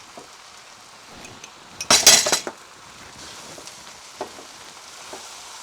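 A metal utensil clattering against a cooking pan in a quick burst of strikes about two seconds in, with a few lighter clinks later, over the faint sizzle of noodles stir-frying.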